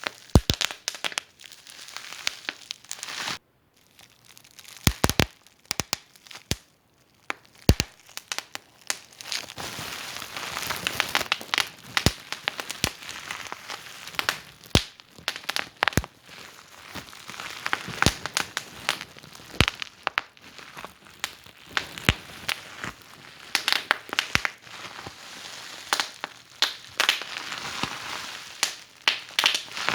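Wood fire in a fireplace crackling, with sharp pops over a steady hiss. A few seconds in it thins to a few scattered pops, then the crackle grows dense again.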